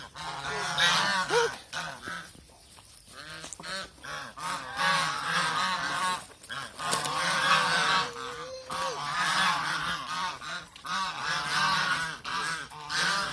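Domestic white geese honking repeatedly, with a brief lull about two seconds in.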